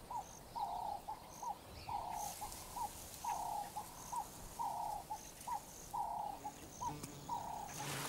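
A bird calling a repeated low phrase of short notes and one longer note, the longer note coming about every second and a half.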